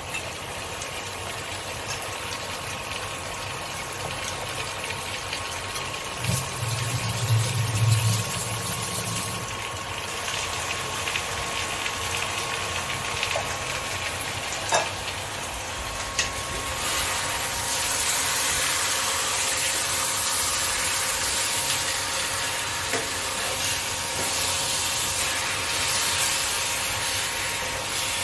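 Marinated mutton sizzling as it fries in a nonstick kadai, the sizzle growing louder about two-thirds of the way through. A brief low hum comes in about six seconds in.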